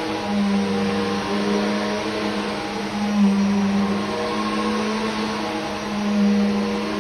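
Vacuum cleaner running, a steady motor hum over a rush of air, swelling in loudness three times as it is worked across the floor.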